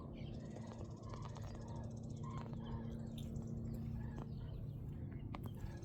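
Faint, scattered calls of marsh water birds over a low, steady outdoor rumble, with a low hum that stops about four seconds in.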